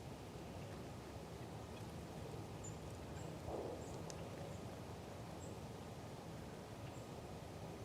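A handful of faint, short, very high chirps from small songbirds, scattered over a steady low outdoor background with a faint hum. There is a brief soft rustle about halfway through.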